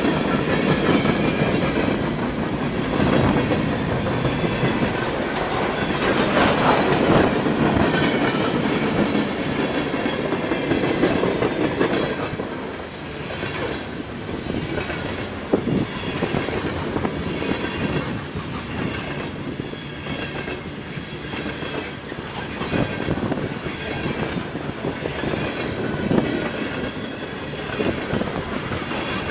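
Railway cars rolling past, wheels clicking over the rail joints in an uneven clickety-clack.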